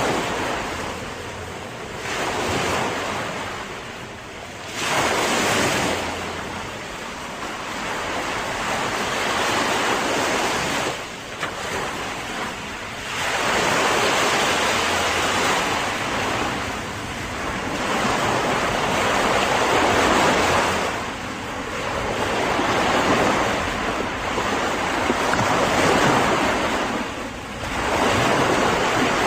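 Ocean waves breaking and washing in, surging and ebbing every few seconds.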